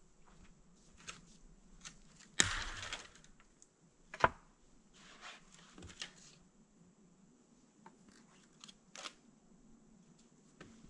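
Branches being snapped by hand for firewood: a loud crack about two seconds in with a short rustle after it, then a sharper, louder snap about four seconds in, with lighter cracks and rustling between.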